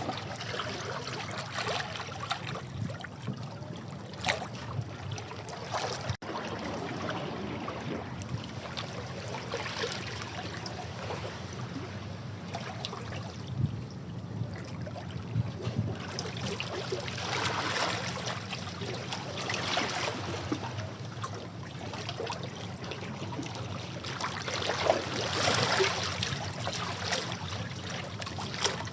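Sea water washing against rocks: a continuous splashing and trickling, swelling into louder surges every few seconds as waves break and drain back.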